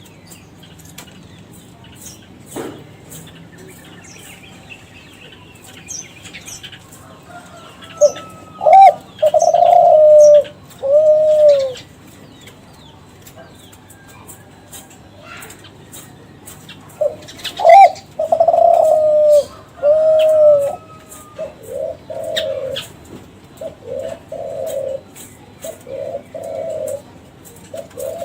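Spotted dove (Kelantan-line derkuku) cooing: two full song phrases of low, rounded coos about 8 and 17 seconds in, then a run of short repeated coos near the end. Faint chirps of small birds are heard throughout.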